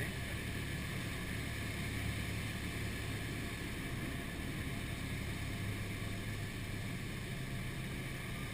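Steady drone of a Cessna 172's piston engine and rushing air inside the cockpit, an even low hum under a hiss.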